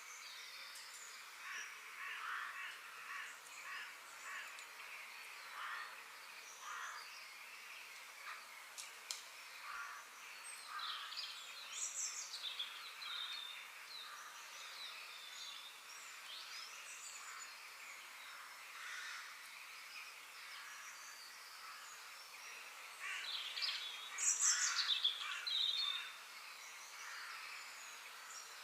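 Outdoor park ambience: birds calling and chirping over a steady background hiss, with many short calls and a louder flurry of high chirps about three-quarters of the way through.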